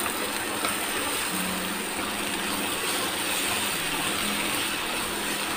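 Onion masala and chopped tomato sizzling steadily as they fry in a non-stick pan, stirred with a wooden spatula.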